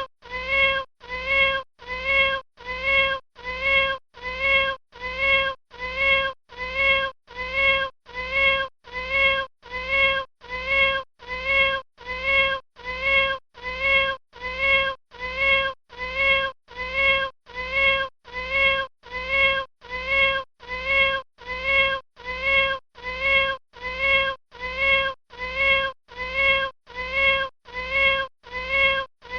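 A kitten's short meow repeating about once a second, each call the same steady-pitched tone and the same loudness, like a looped recording.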